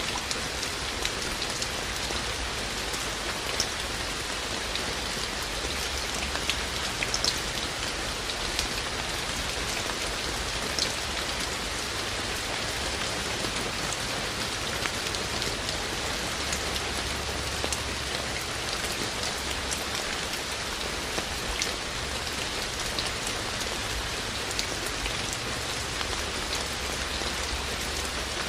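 Steady rain with a constant hiss, and many individual raindrops ticking sharply on a hard surface close by.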